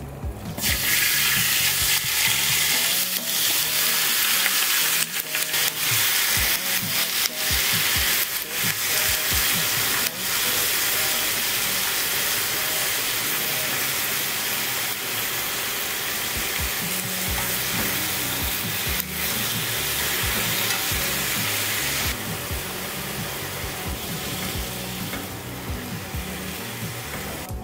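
Pieces of sausage sizzling in hot oil in a non-stick frying pan on a gas burner, the sizzle starting suddenly about a second in as the food goes into the pan. Clicks of a utensil stirring them come through now and then, and the sizzle eases a little near the end.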